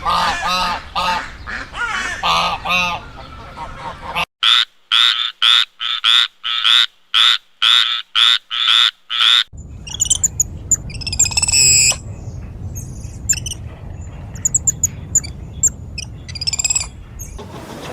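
A string of animal calls, changing animal partway through. First come pulsed calls. Then, from about four seconds in, a run of evenly spaced calls, about two a second, with silence between. From about halfway, high squawking calls over a steady background hiss.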